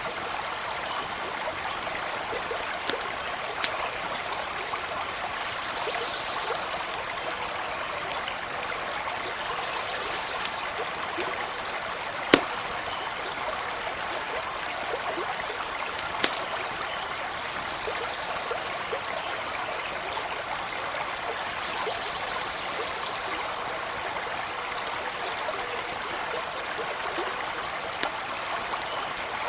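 Shallow stream running steadily over stones, with a few sharp pops from a crackling campfire; the loudest pop comes about twelve seconds in.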